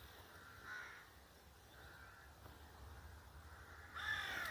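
A bird calling faintly three times, short calls, the last and loudest near the end.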